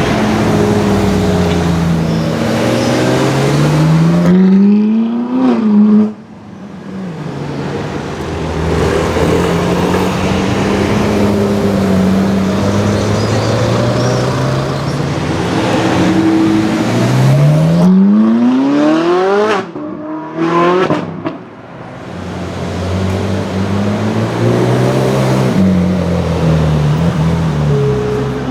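Novitec-exhausted Ferrari 458 Italia V8 running at low revs, with two long climbs in revs, about 2 and 17 seconds in, each cut off sharply as the throttle is released.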